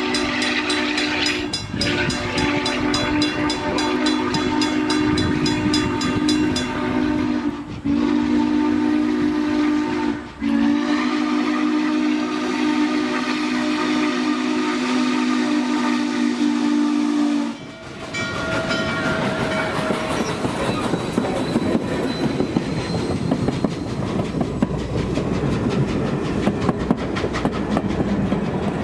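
Steam locomotive chime whistle, N&W 611's, blown in several long blasts with short breaks between them. It stops about two-thirds of the way in, leaving the train rolling by with rapid clickety-clack of wheels over the rail joints.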